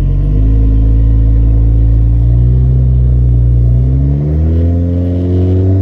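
Nissan 240SX's engine running loud and revving. Its pitch steps up about half a second in, climbs steadily through the middle, and levels off higher near the end.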